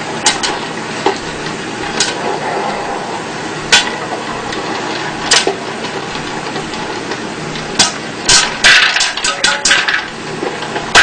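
Irregular sharp knocks and clicks over a steady hiss, growing into a quick flurry of clatter about eight seconds in.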